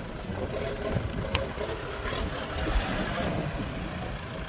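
Motor vehicles running, a steady mixed rumble of car engines, with a short sharp click about a second and a half in.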